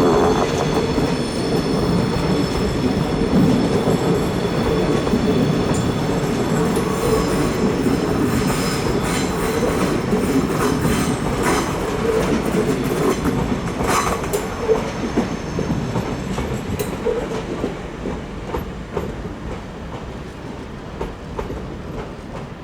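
Passenger train rolling through a tight curve, its wheel flanges squealing against the rails in high steady tones over the running rumble for the first several seconds, then wheels clicking over rail joints. The rumble fades toward the end as the train moves off.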